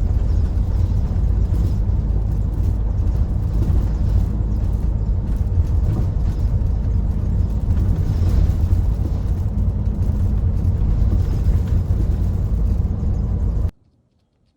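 Hino Profia heavy truck running on the road, a steady low rumble that cuts off suddenly near the end.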